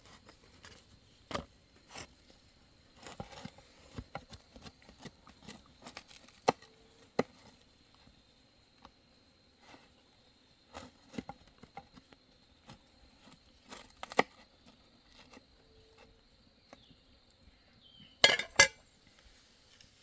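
Irregular light clicks and knocks, a pair of louder ones near the end, over a faint steady high-pitched tone.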